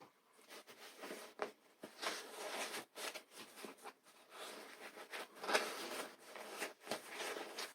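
Irregular soft rustling with a few light taps and clicks: hands working a fabric receiving blanket into the slit of a foam pool noodle.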